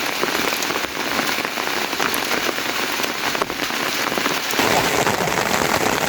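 Steady heavy rain falling, a dense patter of drops hitting surfaces close to the microphone.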